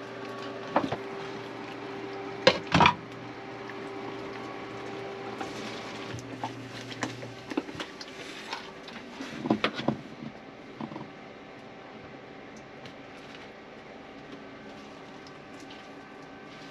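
Pots and utensils knocking and clinking during cooking: a few sharp knocks in the first three seconds and another cluster around ten seconds in, over a steady hum that stops about seven and a half seconds in.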